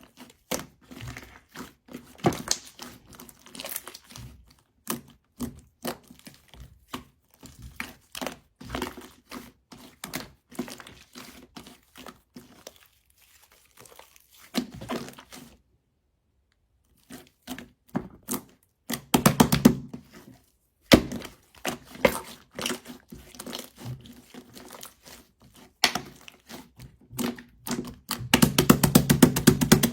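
Slime being squished and pressed by hand: irregular sticky pops and clicks, with a short pause about halfway and two runs of rapid crackling popping, one about two-thirds of the way through and one at the end.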